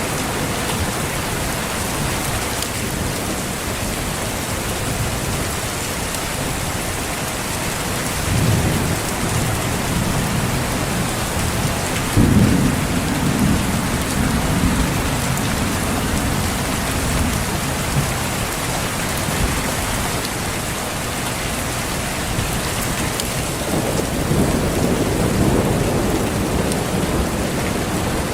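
Steady heavy rainfall with rolls of thunder: a low rumble about eight seconds in, a louder one starting about twelve seconds in and lasting several seconds, and another near the end.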